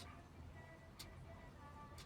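Near silence, with faint sharp ticks about once a second over a few faint steady tones.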